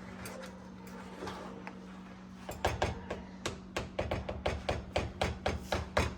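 A utensil knocking repeatedly against a pot of thick food, starting about a third of the way in and going on at roughly four knocks a second, over a steady low hum.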